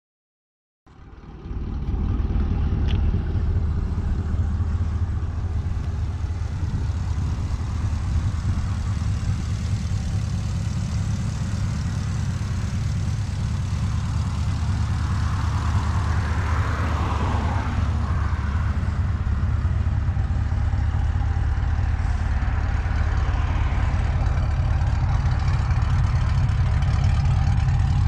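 Chevrolet Camaro's LS V8, fitted with a Texas Speed Stage 1 VVT camshaft, idling steadily with a deep exhaust rumble. It comes in about a second in.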